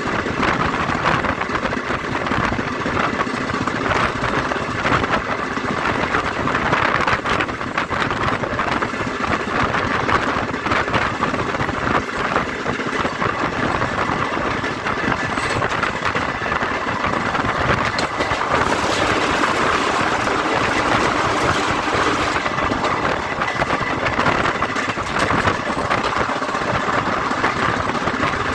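Steady running noise of a moving vehicle, even in level throughout.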